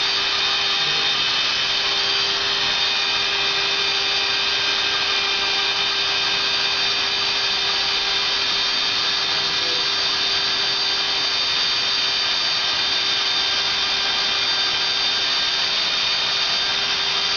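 Hand-held plastic extrusion welder running steadily, a motor whine held at one pitch over a steady hiss.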